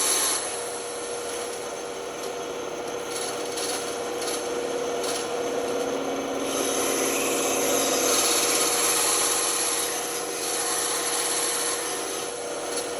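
Band saw running with its blade cutting through wood: a steady hum under the rasp of the cut, which swells and eases as the piece is worked through a difficult stretch of the cut.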